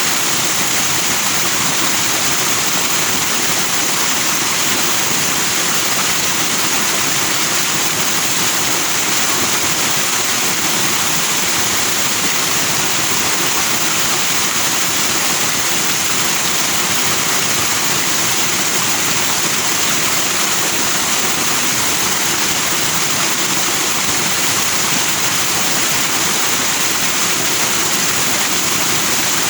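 Fast-flowing forest stream rushing over rocks in white foam, a steady, unbroken rush of water.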